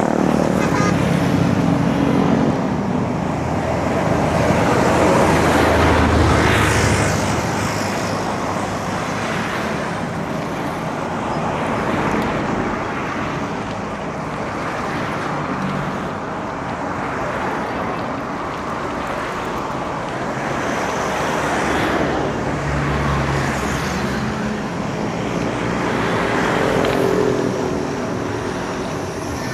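Road traffic heard from a moving bicycle: a steady wash of road noise with motor vehicles passing, their engines swelling and fading several times.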